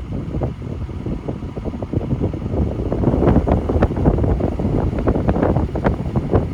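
Wind buffeting the microphone: a loud, irregular low rumble with crackles.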